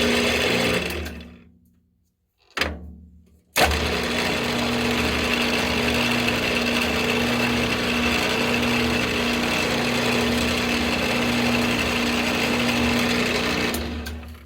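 Mill drill motor running and spinning down about a second in, a brief restart, then running steadily from about three and a half seconds until it spins down near the end, while a center drill spots a cross hole in 3/8-inch rod.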